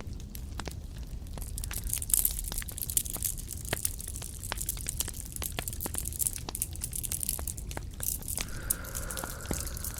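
Close-miked ASMR trigger sounds: dense, irregular crackling and crinkling made of many small sharp clicks. A faint steady tone joins them about eight and a half seconds in.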